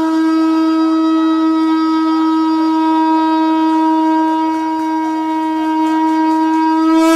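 Conch shell (shankh) blown in one long, loud, steady note held without a break.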